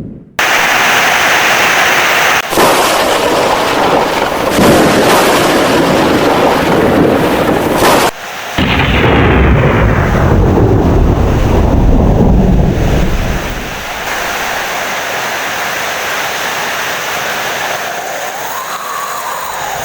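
Heavy rain with thunder. A loud, deep rumble rolls for several seconds and dies away about two-thirds of the way through, leaving steady rain. The sound cuts out briefly at the very start and again just before the middle.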